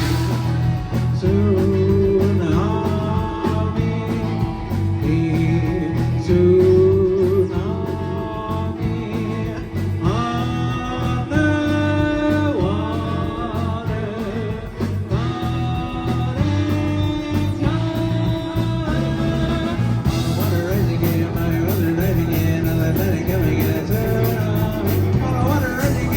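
Live band playing a song: a melodic lead line over a steady beat, with a full band sound throughout.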